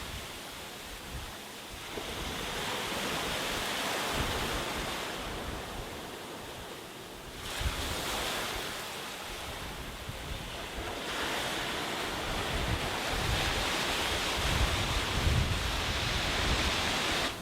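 Sea waves breaking and washing up the beach in several surges, each swelling and easing off, the loudest near the end. Wind rumbles on the microphone underneath.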